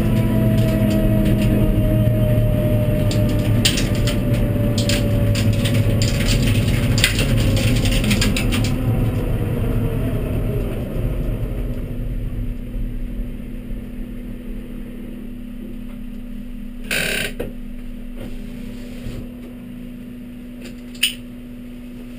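Cabin sound of a Honda Civic Type R EP3's 2.0-litre four-cylinder engine, loud at first with its pitch falling steadily over about ten seconds as the car slows. It then drops to a quieter steady hum, with a couple of sharp clunks from the cabin near the end.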